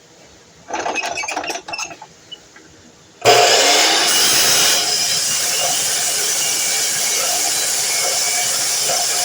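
Clattering and knocking of material being handled, then about three seconds in a DeWalt power miter saw switches on suddenly and runs loudly, loudest for the first second and a half and then steady.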